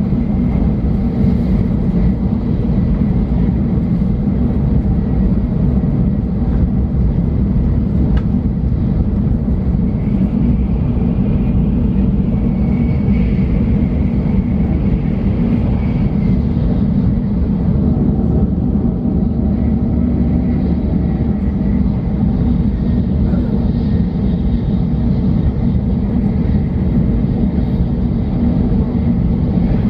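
Steady low rumble of a Shinkansen bullet train running at speed, heard from inside the passenger cabin at the window.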